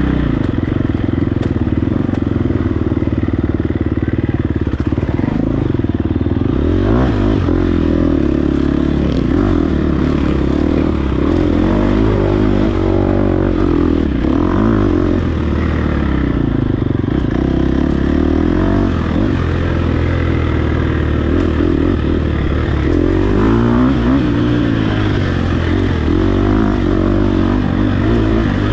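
Dirt bike engine being ridden hard off-road, its pitch rising and falling every second or two as the throttle is opened and rolled off, with some clatter from the bike.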